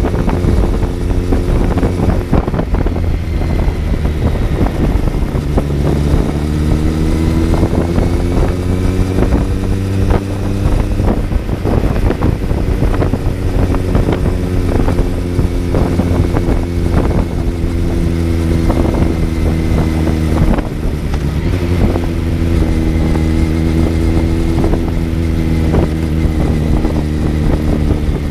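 Kawasaki Z900's inline-four engine heard from on board while riding, its pitch climbing steadily through the revs and dropping back about three times, with wind rush over it.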